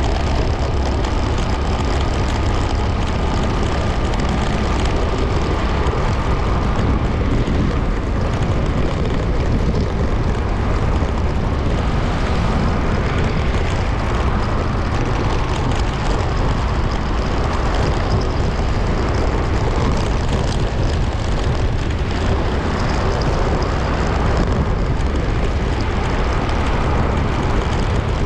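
Motorcycle on the move: steady wind rush on the camera microphone over the engine.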